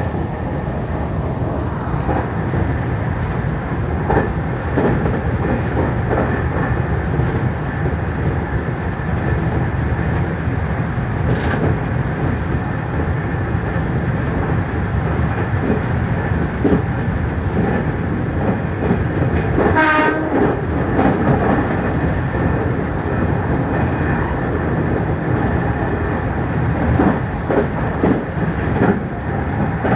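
Local electric train running along the line: steady running noise with wheels clicking over rail joints. A brief pitched tone, horn-like, sounds once about twenty seconds in.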